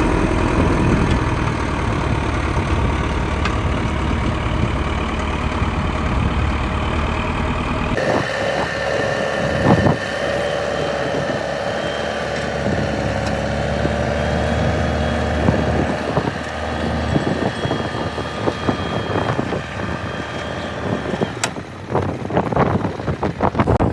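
Heavy earth-moving machine's diesel engine running. The sound changes abruptly about a third of the way in to a steadier engine note with a whine, and scattered knocks and clatter come near the end.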